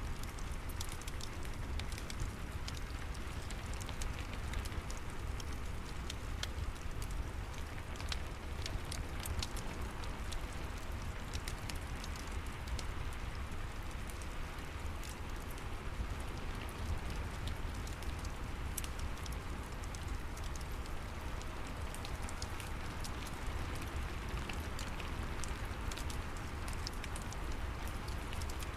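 Steady rain falling, mixed with the scattered sharp crackles of a wood fire in a fireplace, over a constant low rumble.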